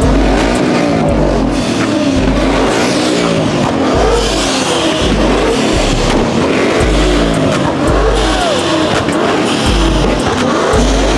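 Car engines revving hard again and again, several at once, their pitch sweeping up and falling back, over a pounding bass beat.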